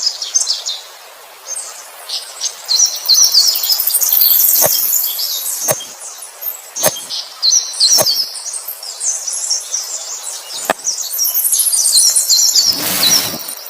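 Small birds chirping, with a few sharp clicks spaced about a second apart in the middle.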